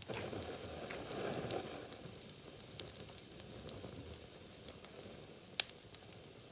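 Wood bonfire crackling and popping, with a sizzling hiss over the first two seconds and one sharp, louder pop about five and a half seconds in.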